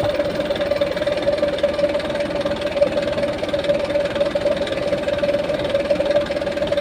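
Heavy diesel engine running steadily with a clattering note and a steady whine on top.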